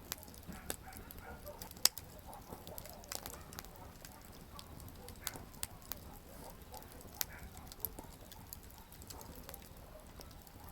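Wood campfire crackling: irregular sharp pops and snaps from the burning firewood over a low, steady hiss. The loudest snap comes about two seconds in.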